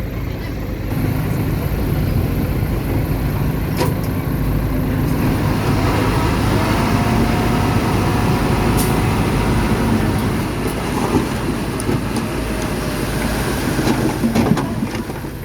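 Diesel engine of heavy earthmoving machinery running steadily under load, with scattered metallic clanks and knocks that come more often near the end.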